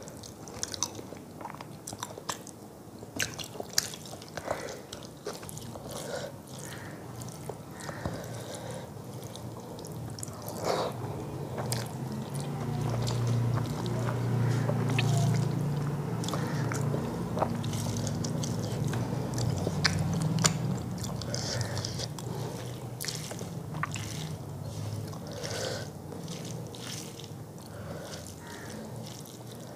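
Close-up chewing and mouth sounds of someone eating rice and fish curry by hand, with many small smacks and clicks, and fingers mixing rice on a metal plate. A low hum swells for several seconds in the middle.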